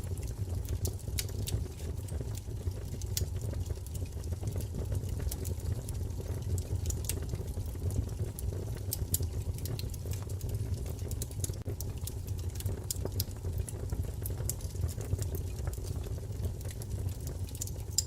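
Wood fire crackling in a fireplace: frequent irregular sharp pops and snaps over a steady low rumble of flames.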